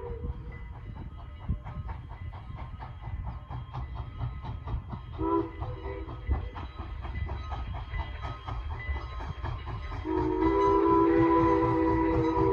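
Strasburg Rail Road steam train running, with a low rumble and an even beat of about three clicks a second. Its whistle gives a short blast about five seconds in, then a long, loud blast near the end.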